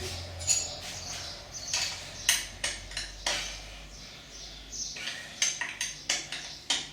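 Metal hand tools clinking and knocking against metal engine parts, a dozen or so sharp irregular clinks, most of them in the second half.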